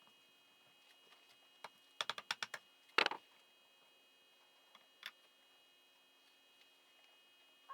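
Hand tools and engine parts being handled during an engine teardown. There is a quick run of about six sharp clicks, then one louder knock, and a couple of fainter clicks a few seconds later.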